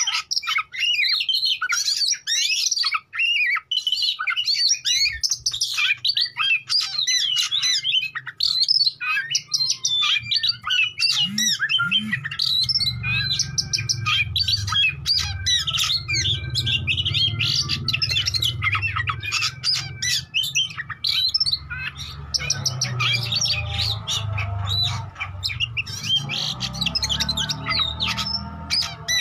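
Oriental magpie-robin (kacer) singing in full voice: a rapid, varied, non-stop stream of whistles, trills and harsh squawking notes. A steady low hum joins it about twelve seconds in.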